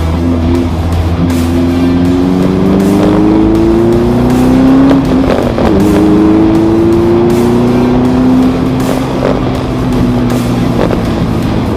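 Car engine accelerating, its pitch rising, dropping at a gear change about halfway through, then rising again as it pulls through the next gear.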